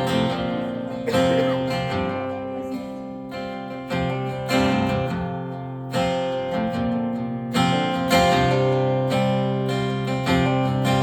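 Acoustic guitar strumming chords with the notes left ringing, as the instrumental intro of a song before the vocal comes in.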